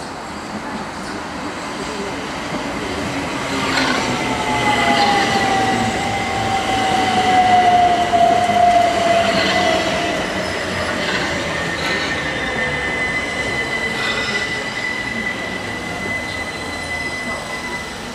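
Southern Class 377 Electrostar electric train coming along the platform close by: a whine that slowly falls in pitch as it slows, a steady high-pitched wheel squeal, and a few sharp knocks from the wheels. It is loudest about halfway through.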